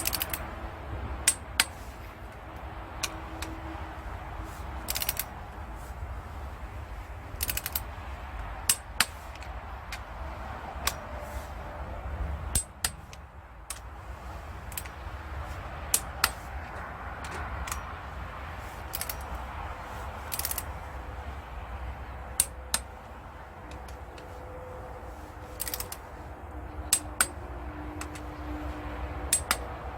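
Scattered sharp metallic clicks and clinks of hand tools and metal parts being handled during work on a truck engine, over a steady low hum.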